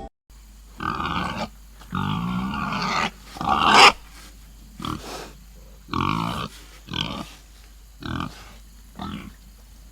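Domestic pig grunting: a series of separate calls with short gaps between them, the loudest about three and a half seconds in.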